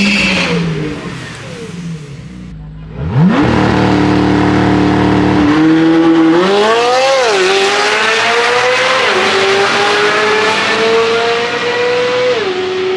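Supercar engine brought up to revs and held at the line, then launched down the drag strip at full throttle, its pitch climbing and dropping back at three upshifts.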